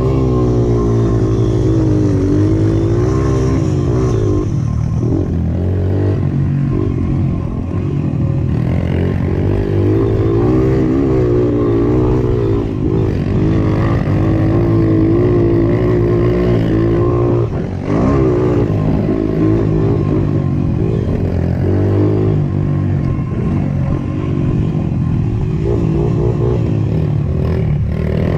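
Mini moto dirt bike engines revving up and down as they ride laps on a dirt track, the pitch rising and falling with the throttle, with a short drop about 18 seconds in.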